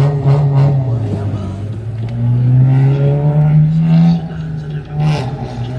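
A car engine running loud and revving, its pitch climbing slowly for about two seconds and dropping back about four seconds in.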